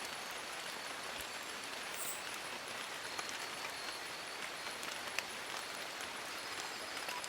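Steady rain falling on forest leaves: an even hiss dotted with scattered drip ticks, one sharper tick about five seconds in.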